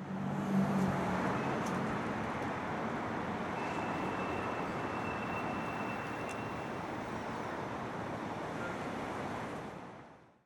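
Street traffic noise: a steady wash of passing vehicles, with an engine's low hum in the first couple of seconds.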